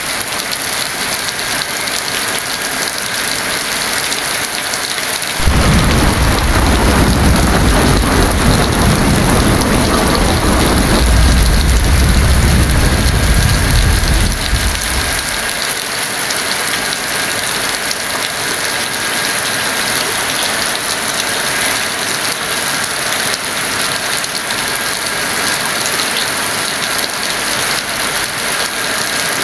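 Heavy rain falling steadily in a constant hiss. About five seconds in, a roll of thunder starts suddenly and rumbles for around ten seconds before fading back into the rain.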